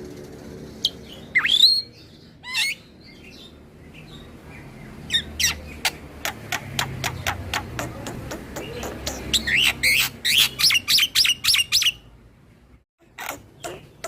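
Black-winged myna (jalak putih) singing: a few scattered whistles and sharp notes, one rising whistle, then from about five seconds in a long, fast run of sharp chattering notes that grows denser, breaks off, and starts again near the end.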